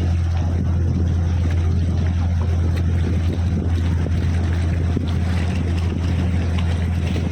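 Canal tour boat's motor running at a steady cruising pace, heard on board as a constant low hum with water and wind noise over it.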